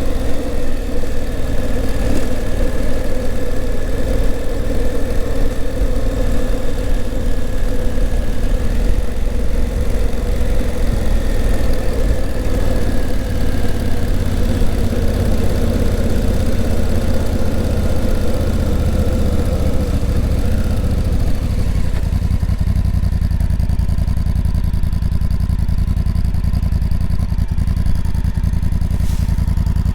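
Honda CRF1000L Africa Twin's 998 cc parallel-twin engine running steadily while riding. About two-thirds of the way through, the higher part of the sound falls away and a lower, pulsing engine note is left.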